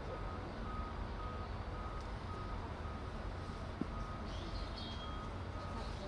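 Electronic warning beeper sounding a steady single-pitch beep about twice a second, like a reversing alarm, over a constant low rumble.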